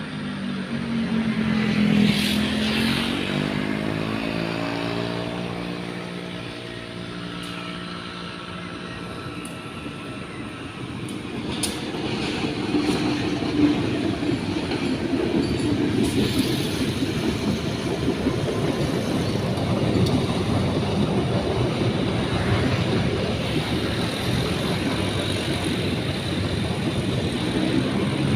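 CC201 diesel-electric locomotive passing on a railway bridge: its engine drone is loudest about two seconds in, and its pitch bends as it goes by. From about twelve seconds on, the steady rumble and clatter of the train cars rolling over the rails takes over, with a few sharp knocks.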